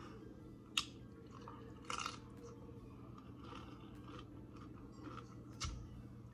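Close-up chewing of a crunchy hard-shell taco, with a few short, sharp crunches, the strongest about two seconds in.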